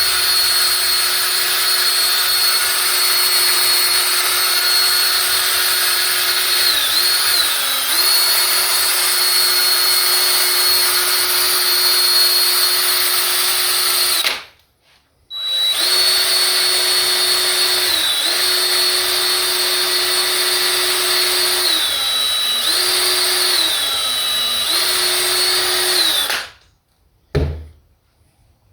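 Small handheld rotary power tool buffing a guitar's finish: a steady high motor whine whose pitch sags briefly several times as it takes load against the work. It stops about halfway, starts again a second later, and stops for good a couple of seconds before the end, followed by a short knock.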